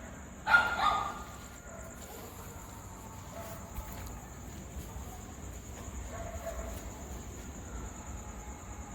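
A dog barks once about half a second in, over a steady high-pitched chirring of insects.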